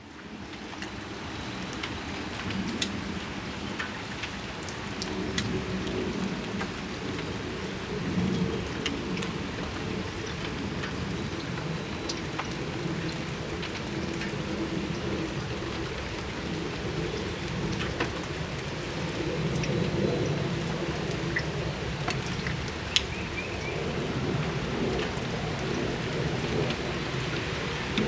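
Steady rain falling on a patio, with sharp individual drips tapping through it and a low rumble that swells and fades several times; the sound fades in at the start.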